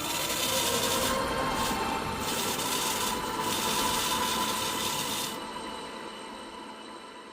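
A harsh rasping, scraping noise that stops about five seconds in, over faint steady tones that fade away.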